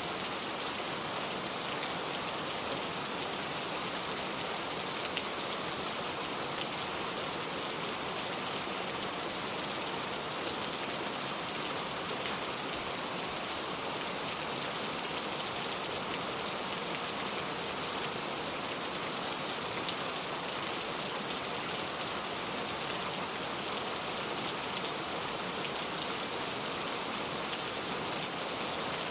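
Heavy rain pouring steadily, an even hiss of rain with scattered fine drop ticks.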